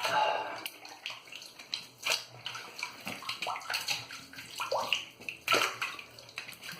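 Water splashing in irregular bursts as shaving lather is rinsed off, the loudest splash right at the start.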